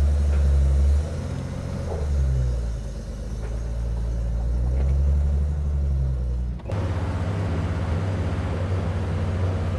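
Datsun 240Z engine and exhaust rumbling at low revs as the car rolls out of the garage, the note swelling and easing a few times and changing abruptly about two-thirds through. The owner's phone decibel app puts this noise right around the allowed limit.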